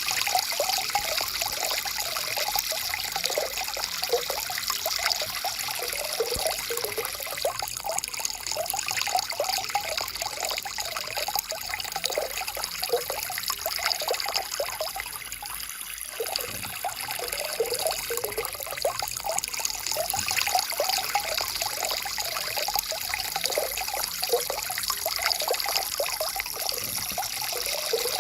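Stream water flowing steadily, with constant gurgling and trickling; it eases slightly for a moment about fifteen seconds in.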